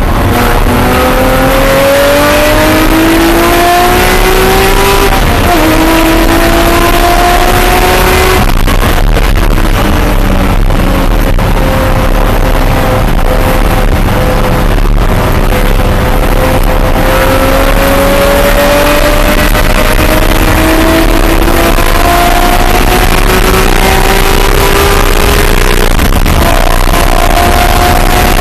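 Porsche 997.2 GT3 RS's naturally aspirated flat-six running hard, loud, its pitch climbing through the revs with sharp upshifts about five seconds in and near the end. In between there is a break, then a long stretch where the pitch dips slightly and then climbs steadily under acceleration.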